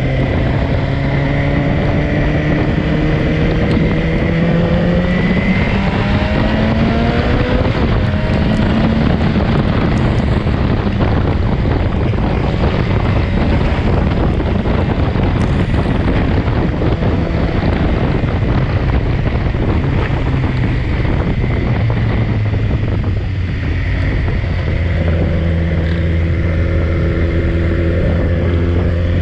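BMW S1000XR motorcycle's inline-four engine running under way, rising in pitch as it accelerates over the first several seconds, then settling to a steady pitch near the end. Heavy wind noise over the microphone covers the engine through the middle.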